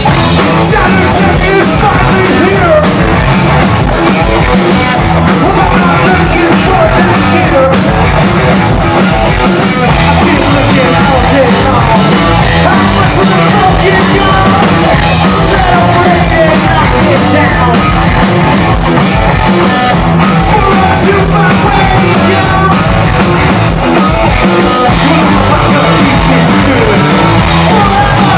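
Rock band playing live and loud, punk-style: drums, bass and guitar, with sung vocals.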